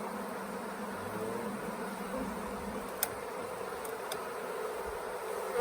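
A swarm of honeybees buzzing steadily in the air, a dense wavering hum of many wings. A light click about three seconds in, and a fainter one a second later.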